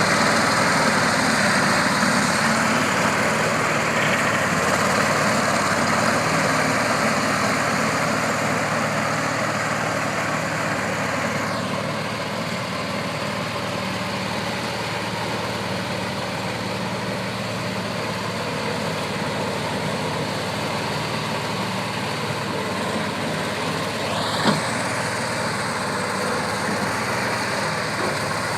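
Mustang 440 skid steer engine running after a cold start, held at raised throttle. A high whine in it drops in pitch about twelve seconds in. It rises again after a sharp click near the end, as the throttle comes back up.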